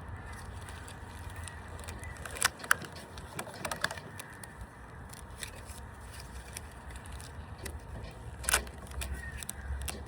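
Rubber bands being stretched and snapped onto a watermelon: a few sharp snaps, two close together about two and a half seconds in and the loudest near the end, over a low steady rumble.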